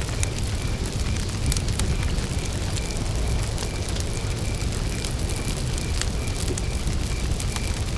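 Campfire burning: wood crackling with scattered sharp pops over a steady low rumble of flames. A cricket chirps in an even, repeating pulse throughout.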